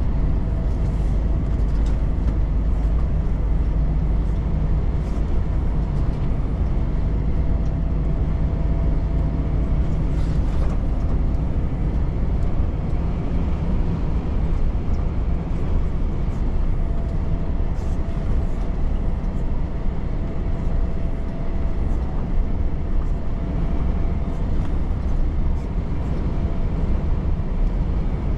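Volvo FH truck on the move at steady speed: an even engine drone with road and tyre noise, and a faint steady hum.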